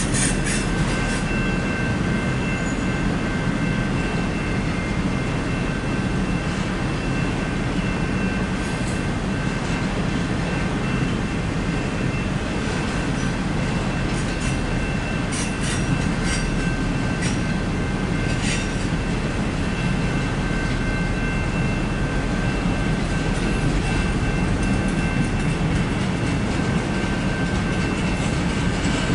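Autorack freight cars rolling steadily past: a continuous rumble of steel wheels on rail, with faint steady high wheel squeal and scattered clicks from the wheels over the rail joints.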